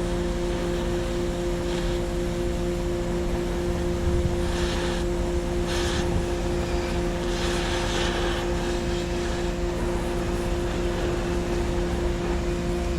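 A machine running steadily with a constant hum at a fixed pitch, broken by several short bursts of hissing.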